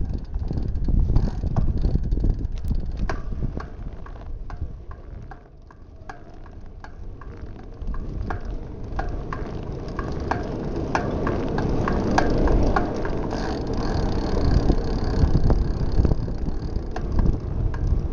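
Wind buffeting a small action camera's microphone on a moving bicycle, with scattered sharp clicks and rattles from the ride. The wind eases about five seconds in, then builds again.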